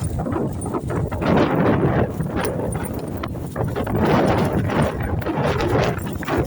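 Strong wind buffeting the microphone in irregular gusts.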